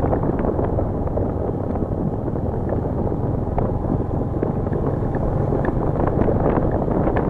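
Steady wind rumbling against the microphone, with a few faint clicks.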